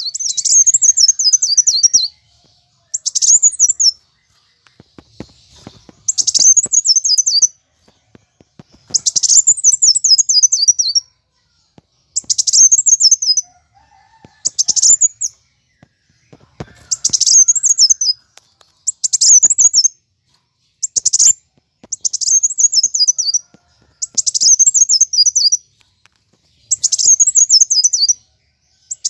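Kolibri wulung sunbird singing in agitated, fighting mode. It gives short loud phrases about every three seconds, each a few sharp clicks and then a rapid run of high notes falling in pitch.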